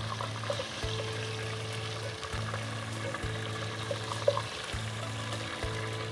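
Chicken pieces sizzling as they fry in hot oil in a steel pot, a steady hiss under background music of sustained chords. A single sharp knock about four seconds in.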